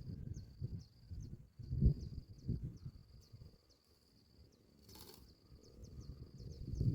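An insect chirping steadily in the background, a short high buzz repeated about twice a second, over low uneven rustling and rumble. A brief hiss comes about five seconds in.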